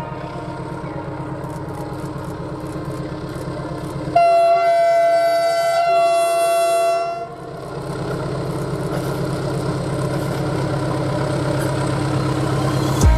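Locomotive running steadily, with its horn sounding one long blast of about three seconds, starting about four seconds in.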